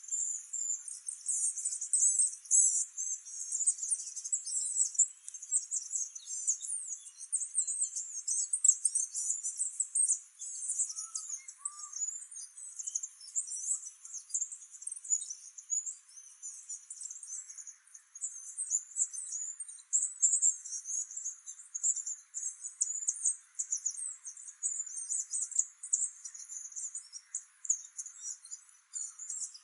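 Birds chattering: a dense, unbroken stream of short, high-pitched chirps and twitters, many overlapping.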